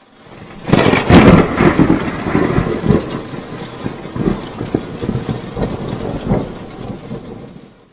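Thunderstorm sound effect: a loud thunderclap about a second in, then rolling rumbles over steady rain, fading out near the end.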